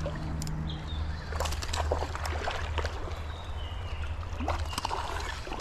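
Water sloshing and splashing at the creek surface, with scattered sharp clicks, as a hooked fish is brought to hand.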